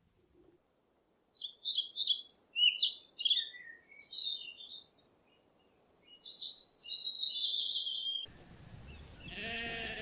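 A small bird chirping in quick, broken high phrases, going into a steady twitter, then cutting off. Near the end a bleating livestock call starts over rougher background noise.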